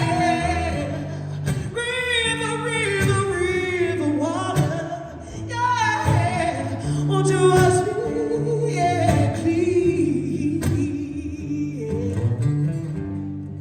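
Singing over instrumental accompaniment, the voice bending and holding long notes without clear words.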